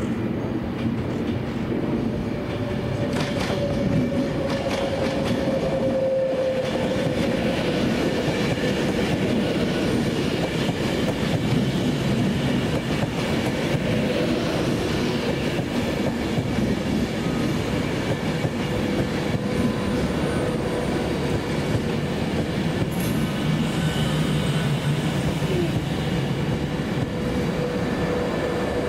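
A passenger train running through the station, its noise loud and steady, with a held tone that dips slightly in pitch over the first few seconds and then stays level.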